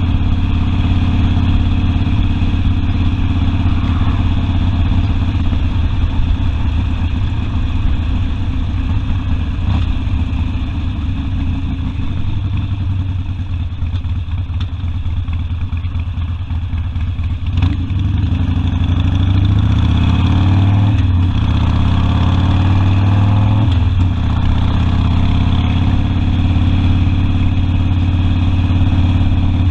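Harley-Davidson Sportster V-twin engine running under way, heard from the rider's seat, with a steady low exhaust note. About two-thirds of the way in it picks up, the pitch climbing and dropping back a couple of times as it accelerates through the gears.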